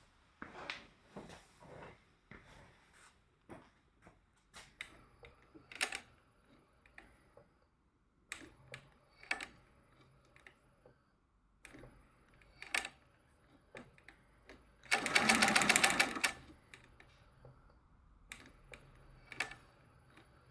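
Durkopp Adler 669 industrial sewing machine, driven by a low-speed servo motor, stitching in a rapid, even run for just over a second, the loudest sound. Around it come scattered light clicks and knocks of the machine being handled, with a faint low hum in stretches.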